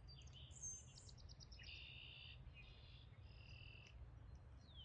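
Faint birdsong: a quick run of repeated high notes, then several short chirping phrases, and a falling whistle near the end, over a low steady rumble.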